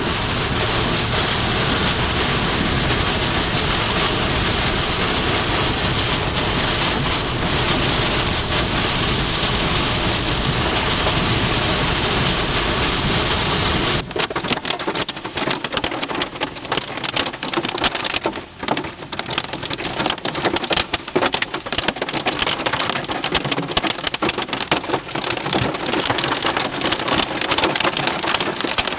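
Severe-thunderstorm wind and heavy wind-driven rain, a loud steady roar. About halfway through it changes abruptly to a dense crackle of rain pelting in many sharp hits, with the low rumble gone.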